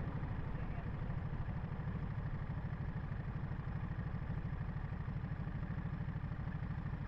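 Ducati Monster SP's 937 cc V-twin engine running steadily at highway speed in fifth gear, with a low rumble of wind on the microphone.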